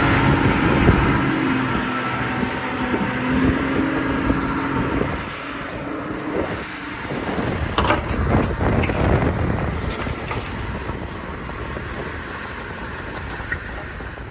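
Heavy diesel earthmoving machinery working: a steady engine note for about the first five seconds, then a cluster of clanks and knocks around eight seconds in, the sound gradually fading.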